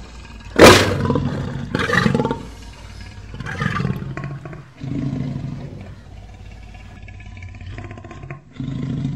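Male lion growling and snarling: one loud, sudden snarl about half a second in, then a second strong growl and several shorter, weaker ones.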